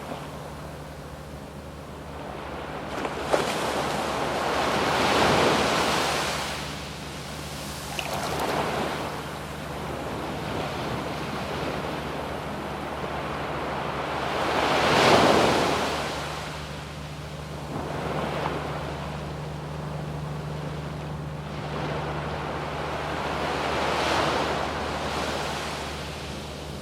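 Sea waves breaking and washing up a sandy beach, each wave swelling and fading, with the largest breaks about five seconds in and about fifteen seconds in. A faint low steady hum runs underneath, and there is a brief click a little after three seconds.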